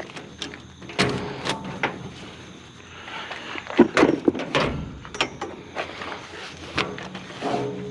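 A series of sharp knocks and clunks, a dozen or so spread irregularly, busiest about halfway through: the sound of things being handled and moved.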